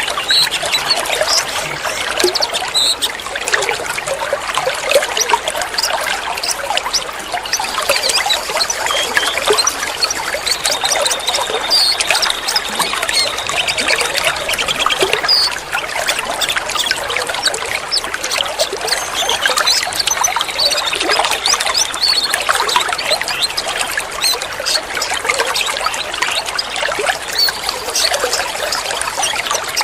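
Water trickling and splashing steadily, with a few short, high bird whistles mixed in now and then.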